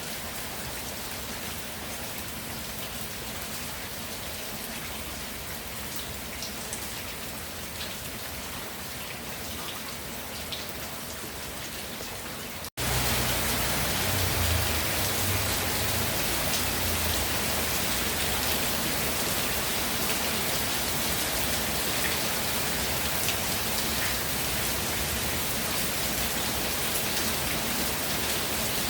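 Steady rainfall, a dense even patter of raindrops. About halfway through, the sound drops out for an instant at an edit and comes back noticeably louder.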